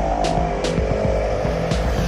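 Heavy truck engine running steadily, mixed with background music.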